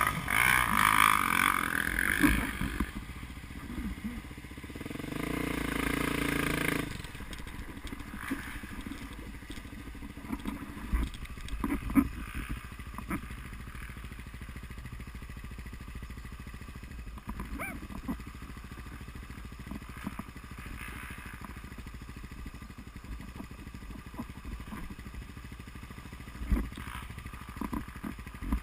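Off-road motorcycle engine revving for the first several seconds, then running low and steady, with scattered knocks and clatter.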